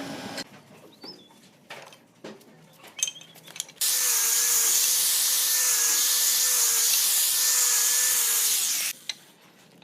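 An electric power tool runs on wood for about five seconds, starting and stopping abruptly, with a slightly wavering motor whine. A few light taps and knocks come before it.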